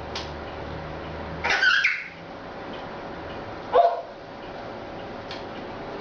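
Pet animal calls: a longer, high-pitched call about one and a half seconds in, then a short bark-like call near four seconds in.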